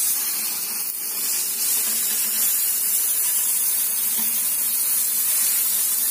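Oil sizzling steadily under a folded, stuffed chapati on a hot tawa; the sizzle starts the moment the chapati goes down.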